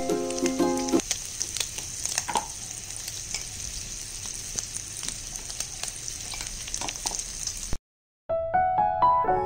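Pork belly pieces frying in a wok: a steady sizzle with frequent small spits and crackles, which cuts off suddenly near the end.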